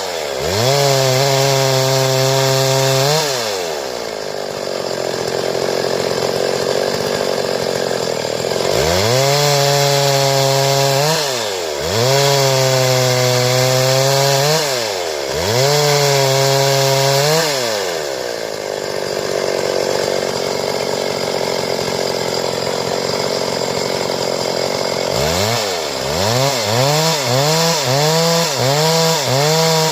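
Stihl two-stroke chainsaw revving up and held at full throttle, then cutting into wood, where the clear engine note gives way to a rough rasp. It falls back and revs again several times, and near the end it is blipped rapidly, about twice a second.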